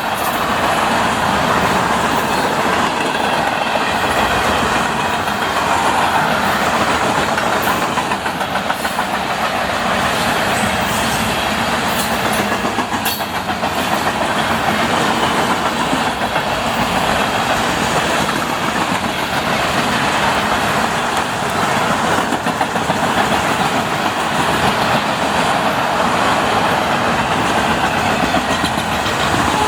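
Freight cars of a long CSX manifest train rolling past at speed: a steady rumble of steel wheels on rail with clickety-clack over the rail joints and occasional sharp clicks.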